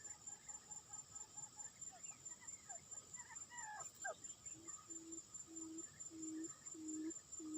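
Birds calling: a flurry of short chirps and quick whistled sweeps in the middle, then a low hooting note repeated about twice a second to the end, over a steady high insect trill.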